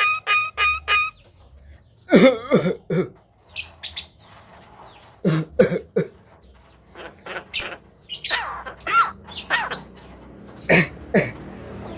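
Javan myna calling: a string of short, harsh calls and whistles that bend in pitch, coming every second or so, after a run of even, regular beeps that stops about a second in.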